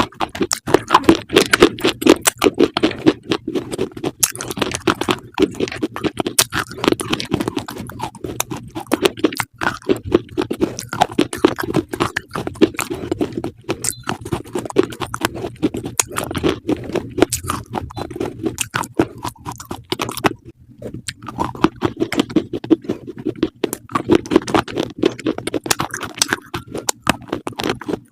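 An animal eating, crunching its food in quick continuous bites, with a short pause about two-thirds of the way through.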